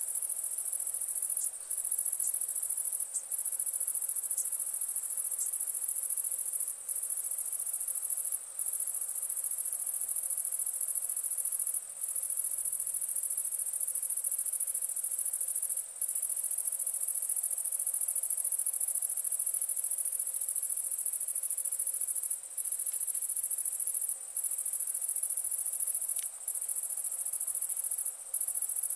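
A high-pitched chorus of crickets chirping without a pause, except for brief breaks every few seconds, with a few faint crackles from a campfire.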